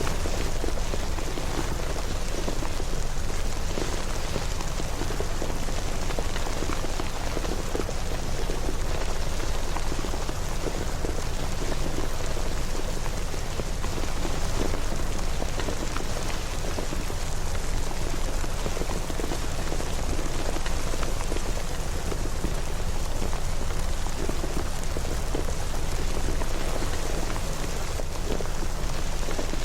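Steady rain falling: a constant, even hiss dotted with many small drop hits, unchanging throughout.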